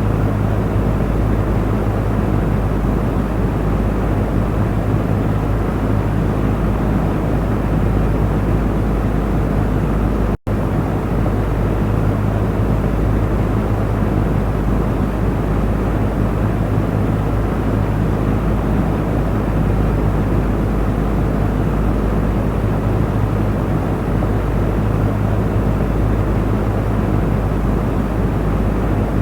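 Electric cooling fan running steadily: an even rush of air over a low motor hum, broken by a split-second dropout about ten seconds in.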